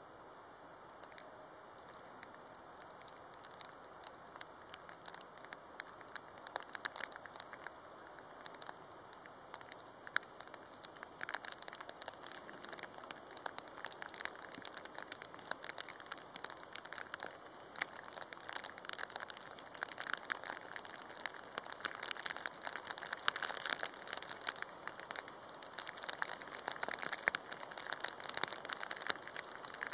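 Heavy rain falling, a dense crackling patter of drops that grows heavier and louder about a third of the way in and again past the middle.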